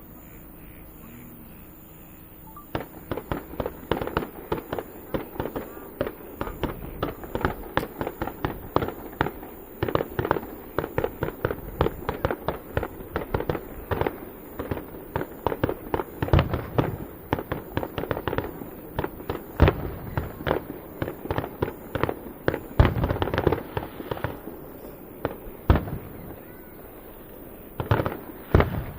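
Aerial fireworks going off in a rapid, dense barrage of cracks and booms, starting a few seconds in and running almost without a gap. The bursts thin out near the end, with a short lull and then a few last bangs.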